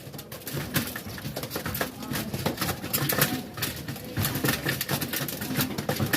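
Racing pigeons cooing, with many sharp clicks and scuffs scattered among the coos.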